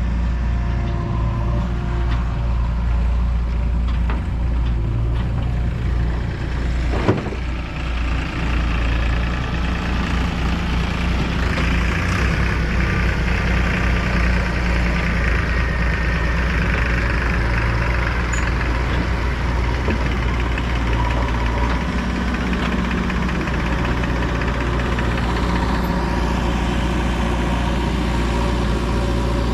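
Heavy diesel machinery running, from a JCB 3DX backhoe loader working beside a tractor. The engine note shifts up and down in the middle stretch, and there is one sharp knock about seven seconds in.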